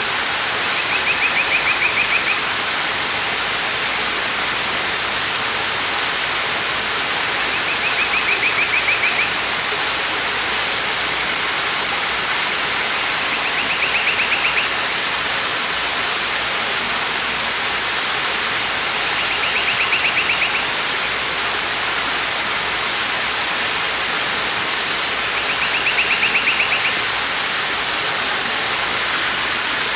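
Waterfall rushing steadily. Over it, a short high, rapidly pulsed trill sounds five times, roughly every six seconds, each lasting about a second and a half.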